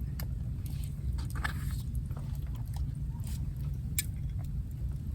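Campfire crackling: scattered sharp pops and ticks over a steady low rumble.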